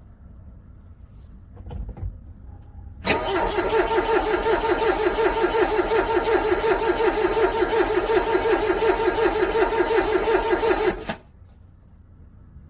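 Car engine cranking on the starter in freezing cold, a rapid, even pulsing lasting about eight seconds, then cutting off suddenly without the engine catching. A faint thump comes just before the cranking begins.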